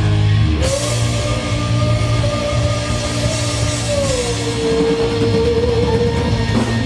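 Live rock band playing the end of a song: distorted electric guitars, bass and drum kit, with a lead guitar holding a long note that drops to a lower one about four seconds in. Big cymbal hits near the start and near the end.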